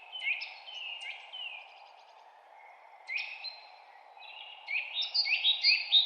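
Birds singing: a series of short, down-slurred whistled notes, a few at first, then faster and louder from about three-quarters of the way in. Under them runs a steady low background hiss of outdoor ambience.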